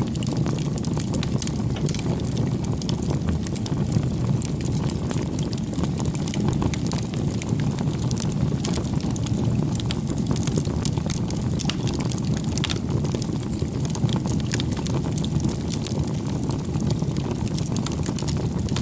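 Wood fire burning steadily, a low constant rush of flames with frequent small crackles and pops from the burning wood.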